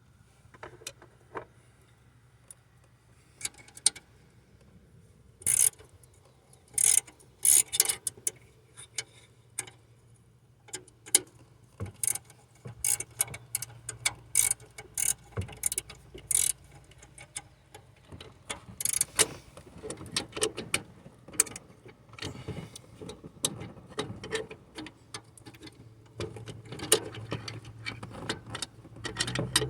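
Hand tools at work on exhaust manifold studs: irregular sharp metallic clicks and clinks of a ratchet and wrench against metal, coming in clusters.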